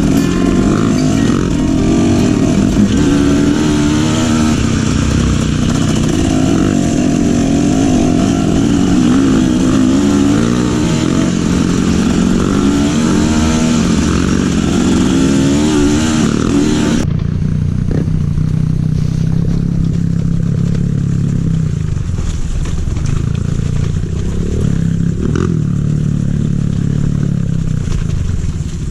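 Trail motorcycle engine running under way, its pitch rising and falling as the throttle changes. About two-thirds of the way through, the sound switches abruptly to a lower, steadier engine note.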